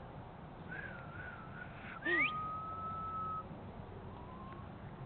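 Person whistling: a wavering whistle, then a quick upward whistle about two seconds in and a steady held note, with a faint short note near the end.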